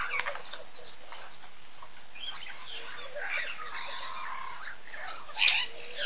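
Bird calls and chirps over a steady background hiss: a few short calls at the start, a warbling call in the middle, and a louder call near the end.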